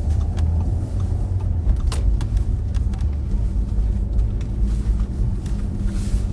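Road and engine noise inside a moving car's cabin: a steady low rumble, with a few faint ticks.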